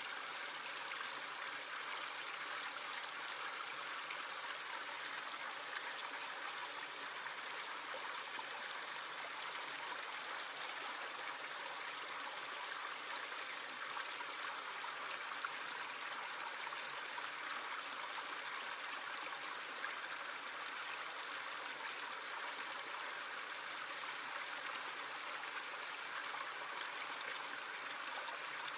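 Small stream running steadily, water trickling and gurgling over stones.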